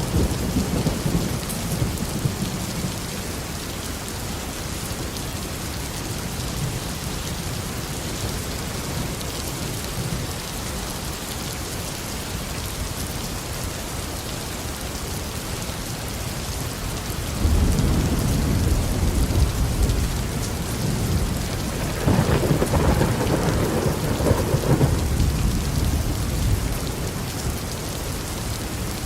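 Steady heavy tropical rain falling, with rolls of thunder: a rumble fades out early on, and past the halfway point a deeper, louder roll of thunder starts suddenly and rumbles on for several seconds before easing.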